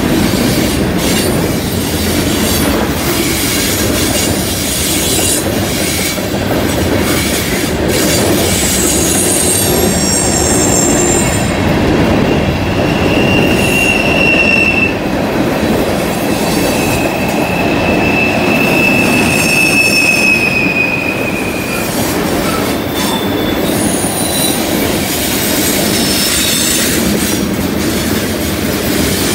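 Freight cars rolling past on a curve: a steady rumble and clatter of steel wheels on rail. Wheel flanges squeal against the curved rail, with a high squeal about a third of the way in and a long steady squeal through the middle.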